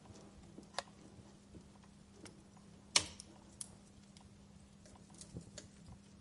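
Wood fire in a fireplace crackling, with irregular sharp pops and snaps; the loudest pop comes about three seconds in.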